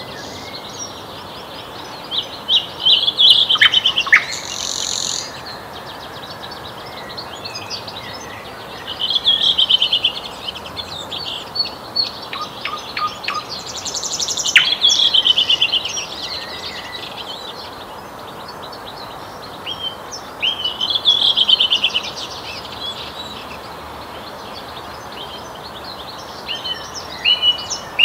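Nightingale singing in separate loud phrases of rapid repeated notes and trills, with pauses of several seconds between them and another phrase starting near the end, over a steady faint background hiss.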